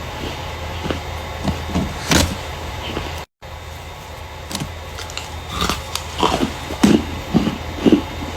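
Starch being squeezed and crushed by hand, a run of irregular crunches and squeaks that grow denser and louder in the second half, broken by a brief cut in the sound about a third of the way in.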